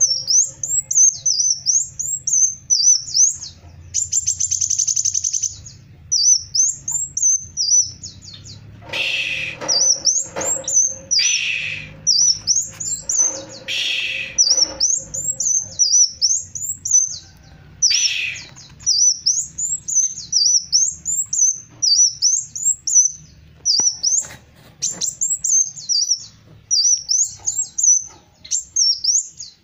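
Kolibri wulung sunbird singing energetically: short, high, quickly warbling twitter phrases repeated over and over, with a buzzy trill a few seconds in and a few louder, harsher calls in between.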